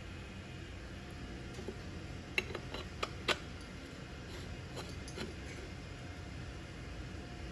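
Steady low background hum with a handful of short, sharp metallic clicks and taps around the middle, from coilover parts being handled and fitted together.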